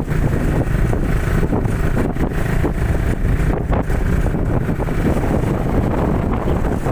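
Wind rushing over the microphone of a moving motorcycle, over the engine running steadily.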